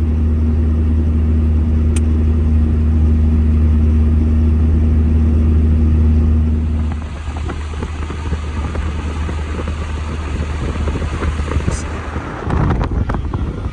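A vehicle's steady low engine drone, which drops away about seven seconds in and leaves a rougher, noisier rumble.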